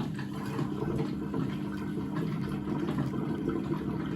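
Gorenje WaveActive washing machine's drain pump running steadily, pumping the heated water out of the drum: a constant low hum over the sound of rushing water.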